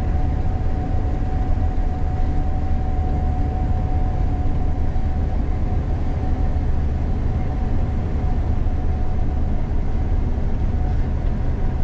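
Gleaner combine harvester running steadily while harvesting soybeans, heard from inside the cab: a dense low rumble with a thin steady whine over it that fades out about halfway through.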